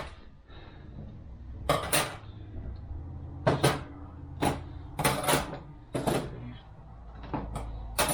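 42RE transmission clutch steels and friction plates being set down and stacked one at a time while they are counted: a string of about ten separate metal clinks and clacks, over a low steady hum.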